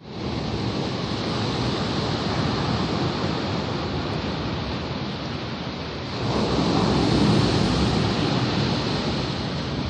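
Sea waves washing on the shore, a steady surf with a wave surging louder about six seconds in.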